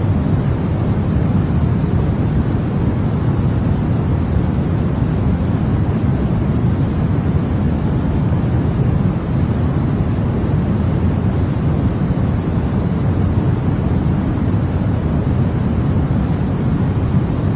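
Continuous sleep 'white noise' for babies: a steady, even rushing hiss with its weight in the deep end and no change in level or pitch.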